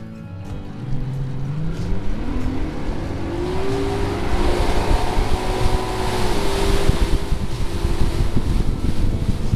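Bass boat outboard motor speeding up, its pitch climbing steadily for the first few seconds and then holding level at running speed, with wind noise on the microphone.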